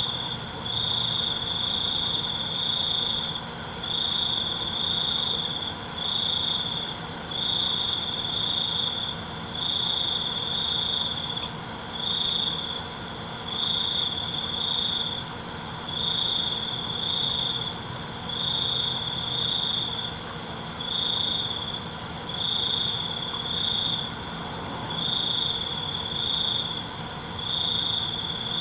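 Night crickets and other insects chirping. One loud trill comes in bursts of about a second, repeated every second or two, alongside a slightly higher pulsing trill and a steady high insect drone.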